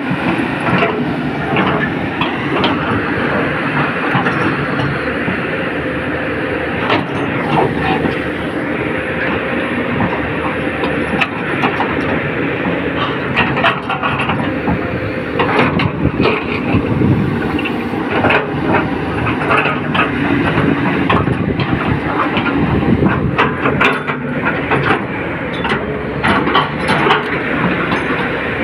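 Excavator at work: its engine runs steadily, with irregular clanks and knocks throughout.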